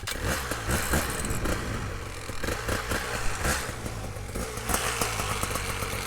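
Tandem paramotor engine and propeller running steadily, just after starting.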